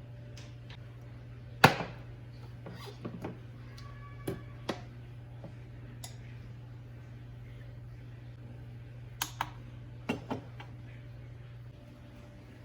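Scattered clicks and knocks of kitchen items being handled, the loudest about two seconds in and a few in quick pairs, one followed by a brief faint ringing, over a steady low hum.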